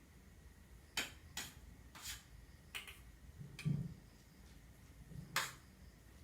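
A series of sharp, irregular clicks or taps, six in about four and a half seconds, with one dull low thump near the middle.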